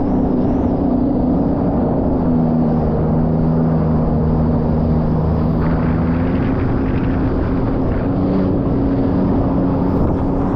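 2023 Sea-Doo RXP-X 300 jet ski's supercharged three-cylinder engine running at a steady speed, over a constant rush of wind and water noise. A second, lower engine tone joins about two seconds in and fades out a few seconds later.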